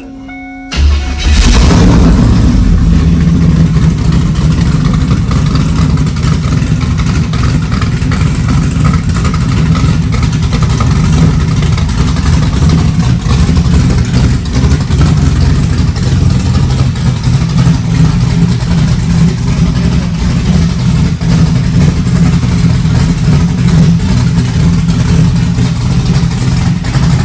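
408 cubic-inch V8 in a Fox-body drag car firing up on a cold start about a second in, then running at a loud, steady idle.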